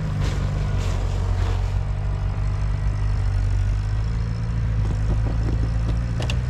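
Off-road vehicle engine running steadily, its pitch stepping up slightly a little after four seconds in. A few short clicks come near the end.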